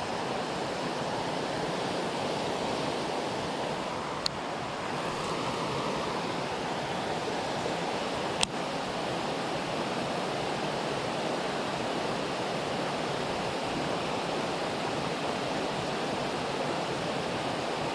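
Steady rushing of creek water spilling over a small waterfall, with two sharp clicks about four seconds apart.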